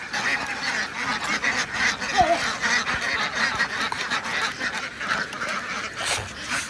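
A large flock of ducks quacking continuously, many calls overlapping.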